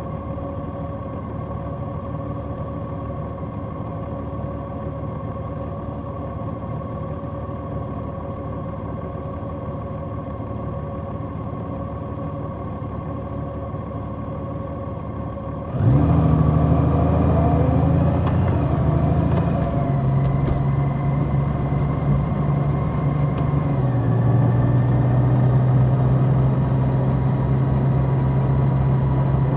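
Large motorcycle engine running at a steady pitch. About halfway through, the sound jumps suddenly louder with a new engine note, which then steps down in pitch twice.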